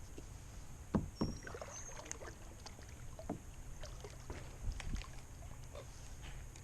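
A kayak under way on calm water: scattered short knocks and small splashes against the hull over a low steady rumble, the loudest knocks about a second in.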